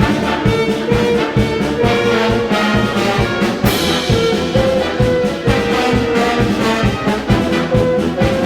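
Concert wind band playing loudly, with brass sustaining notes over a driving beat of regular low percussion strokes. A cymbal crash comes about three and a half seconds in.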